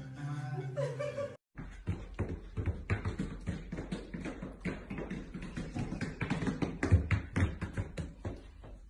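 A brief voice at the start, then a dense run of irregular taps and clicks for several seconds, loudest about seven seconds in.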